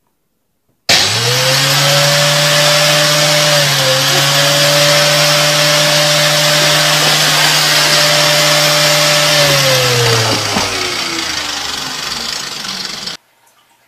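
A loud electric motor starts abruptly about a second in and runs steadily with a hum and a hiss. For its last few seconds it slows, its pitch falling, then it cuts off near the end.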